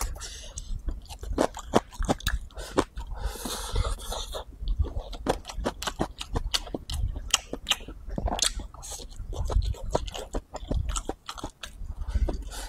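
Close-miked mouth sounds of a man chewing rice, green peppers and braised meat: a steady run of wet smacks and clicks, with a brief noisy rush a little over three seconds in.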